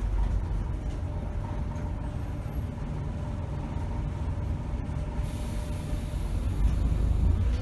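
2010 Scania K270 city bus's diesel engine running at a steady low speed, a low rumble with a faint whine. About five seconds in, a high hiss of air starts and carries on.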